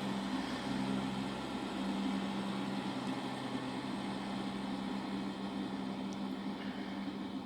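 Class 166 Turbo diesel multiple unit's underfloor diesel engines running with a steady, even drone.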